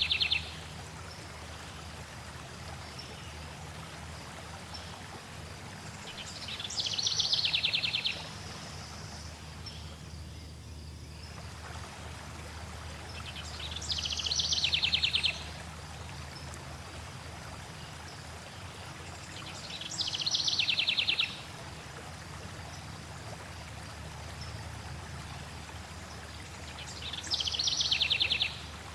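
Flowing water running steadily, with a songbird repeating a short, rapid trilled song about every seven seconds. Each phrase lasts about a second and a half, swells, then stops abruptly, and the song phrases are the loudest sound.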